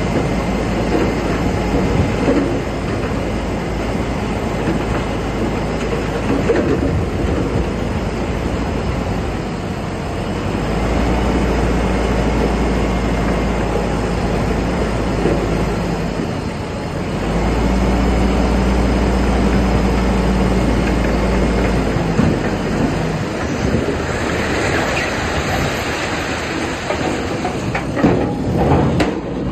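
Bulldozer working: its diesel engine runs continuously along with the clatter of steel crawler tracks. The engine pulls harder for two stretches of several seconds each in the middle.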